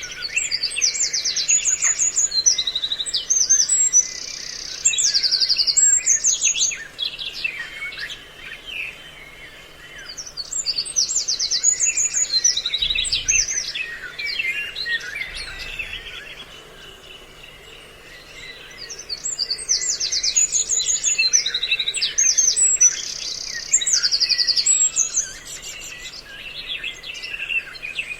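Recorded bird calls, a mix of several species used as a trapping lure, coming in three bouts of fast high trills and chirps, with quieter calling between the bouts.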